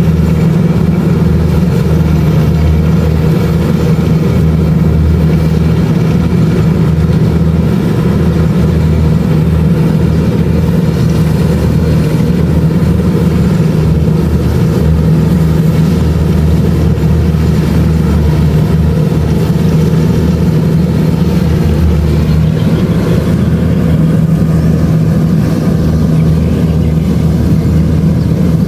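Kubota DC-70 Plus combine harvester's diesel engine running at a steady pace, a loud, even hum with no change in speed.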